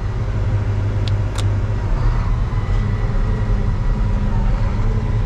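Combine harvester running steadily under power, its threshing rotor engaged and turning, with a constant low engine hum. Two brief sharp ticks come about a second in.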